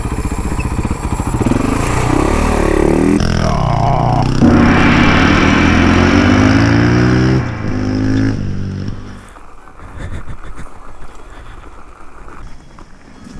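Dirt bike engine revving hard with the pitch rising repeatedly through the gears. About eight or nine seconds in it drops away sharply, leaving quieter rattling and rustling.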